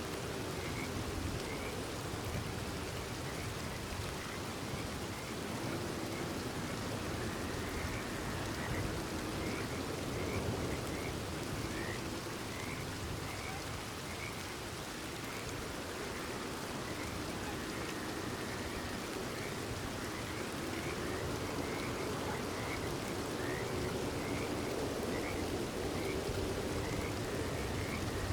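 Steady rain falling, with frogs calling over it in short chirping calls repeated about once or twice a second.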